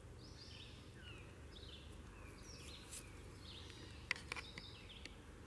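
Faint bird song: short, high chirping phrases repeated about once a second. A few soft clicks come about four seconds in.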